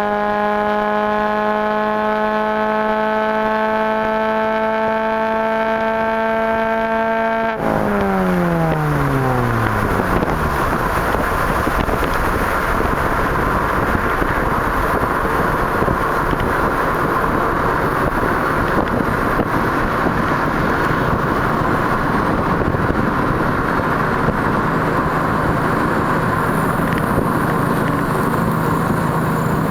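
Straight-piped exhaust of a 2004 Mini Cooper's 1.6 L Tritec four-cylinder, held at a high, steady engine note whose pitch creeps slightly upward. About seven and a half seconds in, the throttle is let off and the note falls away over a couple of seconds. A loud, rough, noisy exhaust rush follows for the rest.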